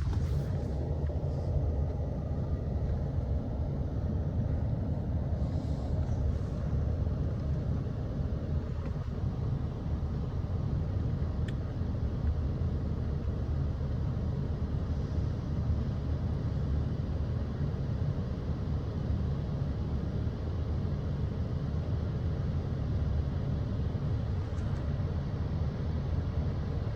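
Steady low rumble, even in level throughout, consistent with machinery running in a car wash.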